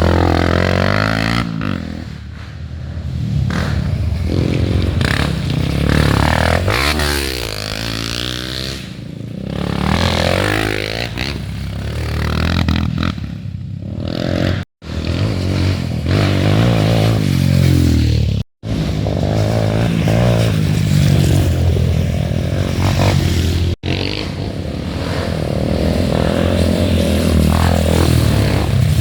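Off-road trail motorcycle engines revving, their pitch repeatedly rising and falling, with the sound cutting out abruptly three times for a split second.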